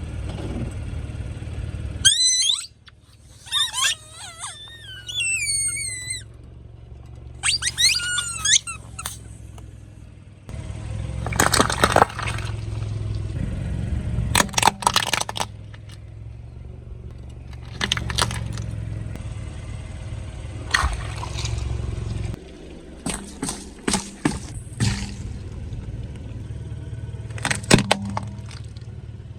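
Car running at low speed as its tyre rolls over and crushes objects: a series of sharp crunches and pops over a steady engine hum. About two seconds in, a few seconds of squeaky sliding tones sound before the crushing starts.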